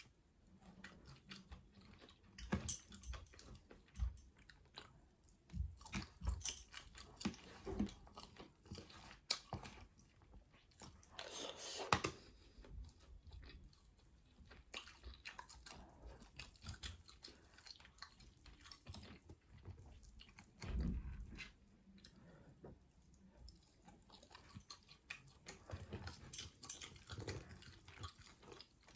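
Close-miked chewing and biting of rotisserie chicken, with irregular wet mouth clicks and smacks. A louder, longer mouth sound comes about 12 seconds in and a low thump about 21 seconds in.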